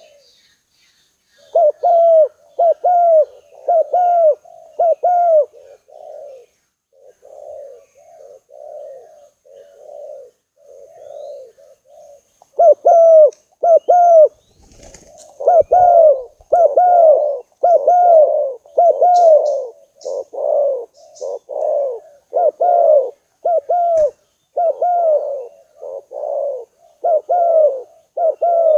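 Spotted dove cooing: a long run of short coos, each rising then falling, about one to two a second. Loud coos start about a second and a half in, quieter ones follow for several seconds, and the loud cooing comes back about halfway through.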